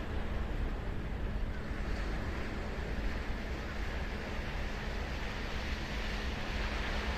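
Ocean surf breaking and washing up a beach: a steady rush that swells slowly over the last few seconds, over a constant low rumble.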